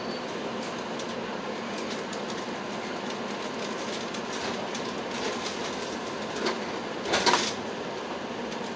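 Electric commuter train heard from inside the carriage, rolling slowly along a station platform: steady running noise with faint wheel clicks, and a brief louder rush of noise about seven seconds in.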